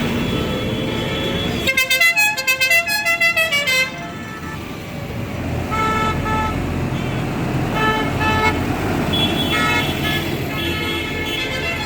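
Tractor engines running as the parade passes. About two seconds in, a horn plays a fast run of toots like a tune for about two seconds, then music with held notes plays over the engines.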